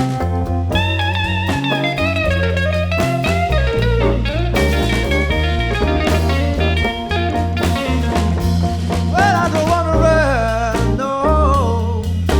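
Blues band playing an instrumental passage: a lead guitar solo with bent, wavering notes over a walking bass line and a drum kit.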